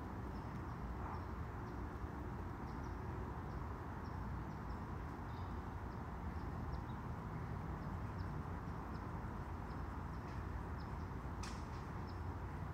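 Outdoor ambience: a steady low rumble, with a small bird chirping short high notes over and over, and one sharper chirp near the end.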